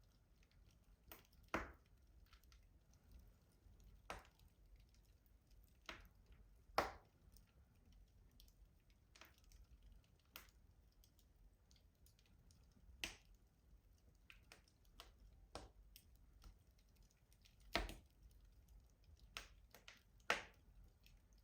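Wood fire crackling in a rustic stove: sharp, irregular pops and snaps every second or two over a faint, quiet background.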